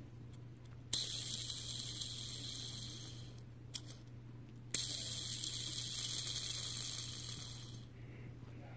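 Batman-shaped fidget spinner flicked into spin twice, about a second in and again near five seconds. Each time a high whirring hiss starts suddenly and fades away over about three seconds, with a small click in between.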